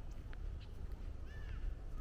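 One short, arched, harsh bird call about one and a half seconds in. It sits over a steady low rumble of distant traffic, with a few light clicks from footsteps on the trail.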